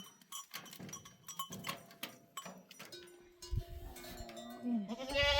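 Flock livestock bleating, with one longer, louder bleat near the end, over scattered light clicks and knocks.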